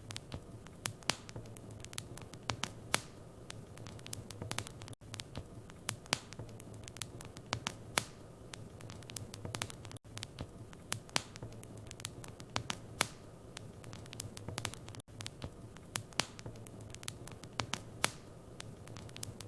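Wood fire burning in a fireplace, crackling with frequent irregular sharp pops over a steady low hiss.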